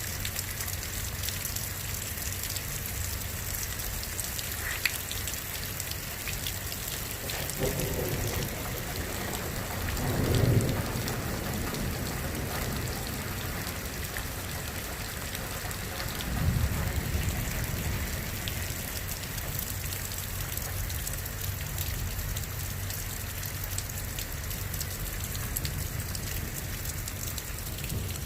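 Steady rain falling as a thunderstorm passes, with low rumbles of thunder swelling about 8, 10 and 17 seconds in; the one about 10 seconds in is the loudest.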